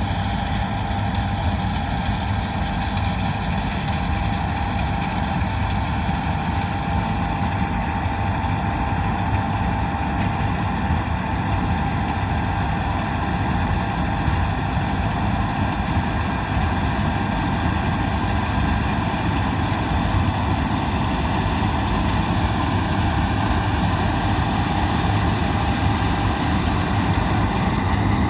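Large John Deere diesel engine running at a steady speed, a deep drone with a steady whine on top; it grows slightly louder in the second half.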